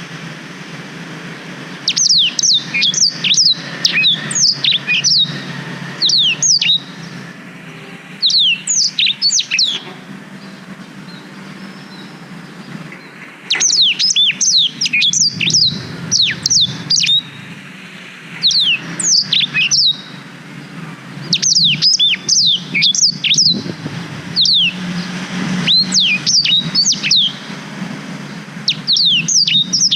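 Blackthroat (black-throated canary) singing: phrases of rapid, high, downward-sweeping notes lasting a few seconds each, separated by short pauses, over a steady low hum.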